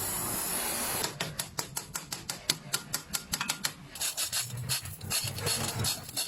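A second of steady hiss, then a fast run of sharp clicks, about six a second, turning irregular over a low hum near the end.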